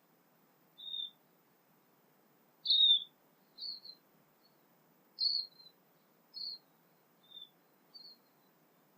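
A bird calling in short, high chirps, about one a second, the loudest near three and five seconds in.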